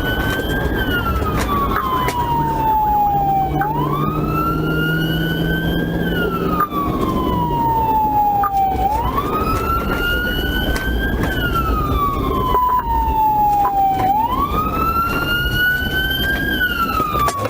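Police car siren on wail, sweeping up and falling back about once every five seconds, over the engine and road noise of the patrol car driving in pursuit.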